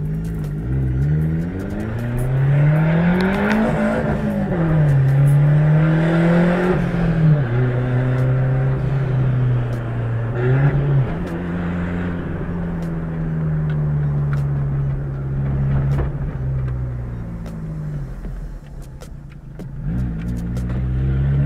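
Turbocharged Fiat Palio Fire 1.0 four-cylinder engine, fitted with a basic 'kit padaria' turbo kit, heard from inside the cabin while driving. The revs climb for about three seconds and drop at a gear change. The engine then pulls steadily, steps up again partway through, sinks slowly, and rises once more near the end.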